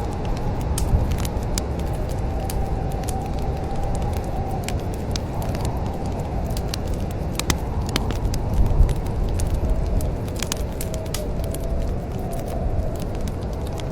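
Wood fire burning in a fireplace, a steady low rumble of flames with frequent sharp crackles and pops, under a faint wavering whistle.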